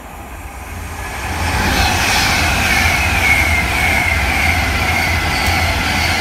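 Virgin Class 390 Pendolino electric train passing at speed, a rushing of wheels and air that grows louder over the first two seconds, with a high whine that falls in pitch again and again over a steady low rumble.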